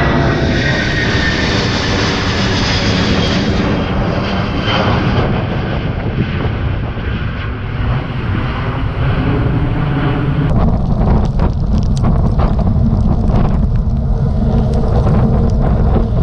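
An airliner going around at Gimpo, its engines passing close with a loud roar and a slowly falling whine. The roar fades, and from about ten seconds in, wind buffeting the microphone takes over.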